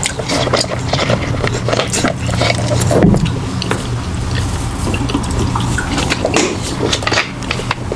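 Wet eating sounds close to the microphone: chewing and lip smacking, with many small irregular clicks and squelches.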